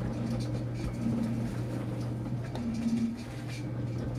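Enxuta Luxo Soft washing machine running a wash of towels: a steady motor hum with a low pulsing tone that comes and goes every second or so, and a faint swishing.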